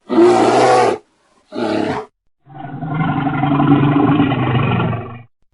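A bear calling: two short calls, then a long drawn-out call of about two and a half seconds.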